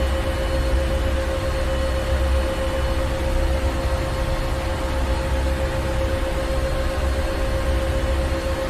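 Ship engine room machinery running steadily: a deep rumble under a constant mid-pitched hum, the rumble slowly swelling and easing every couple of seconds.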